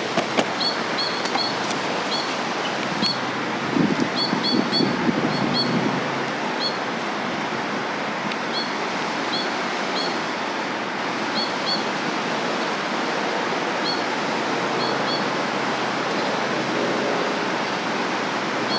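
Steady rush of the Nenana River, with a bird giving short high chirps over and over, often two in quick succession. A few brief rustles come about four to six seconds in.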